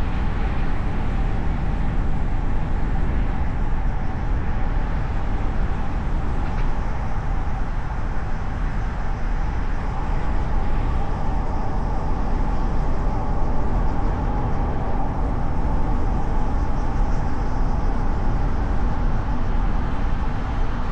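Steady road, tyre and wind noise of a car driving through city streets, picked up by a hood-mounted camera, with a constant low rumble.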